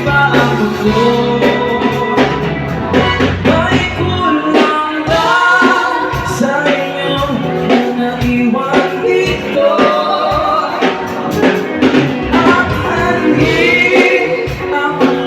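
Band music from a pop song, a wavering lead melody carried over bass and drums, with no words sung.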